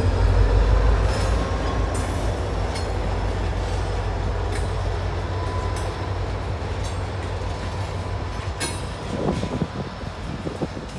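Slow Union Pacific freight train passing close by. The diesel locomotives' low engine drone is loudest at first and fades as they go by, then loaded lumber flatcars roll past with scattered clicks and low thuds from the wheels.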